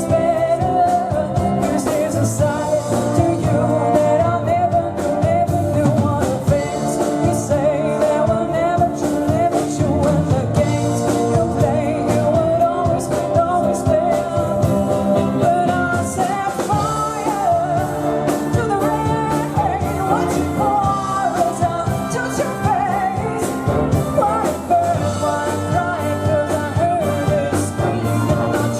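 Big band playing live: horns and rhythm section with a wavering lead melody line above them.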